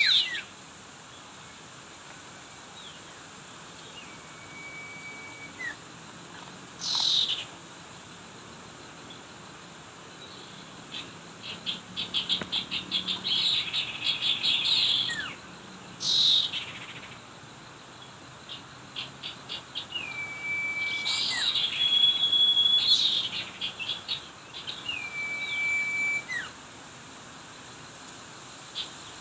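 Small wild birds calling: a clear whistled note held for about a second and then dropping off sharply, repeated several times, along with stretches of fast chattering trills and short down-sweeping calls.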